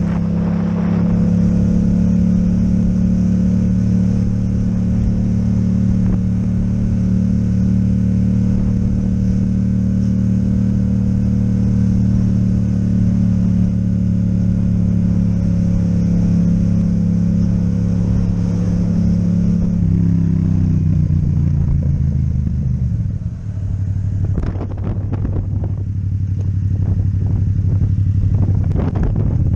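Yamaha MT-07 parallel-twin engine with an Akrapovic exhaust running at a steady cruise. About twenty seconds in its pitch falls as the bike slows, and it runs lower with a few sharp knocks before picking up again at the very end.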